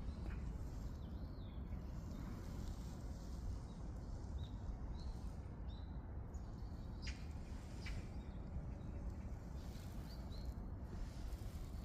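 A small bird giving short chirps every second or two over a steady low rumble, with a couple of brief clicks in the middle.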